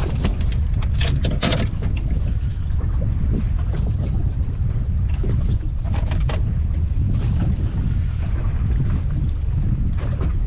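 Steady low rumble of a small fishing boat underway, with wind buffeting the microphone. A few short knocks and clatters come near the start and again about six seconds in.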